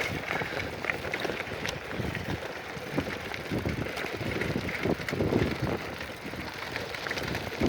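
Wind buffeting the microphone of a moving bicycle rider, over the bicycle's rolling noise, with a few faint clicks.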